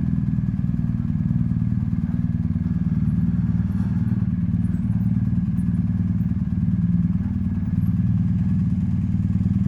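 BMW R1250GSA motorcycle's boxer-twin engine running steadily at low speed.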